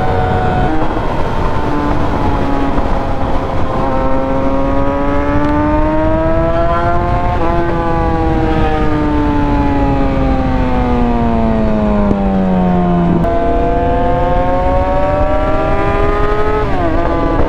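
Yamaha R6 inline-four engine under way. Its pitch drops at a gear change about a second in, then climbs until about halfway, falls steadily as the bike slows, jumps back up near the two-thirds mark and climbs again. A steady wind and road rush runs underneath.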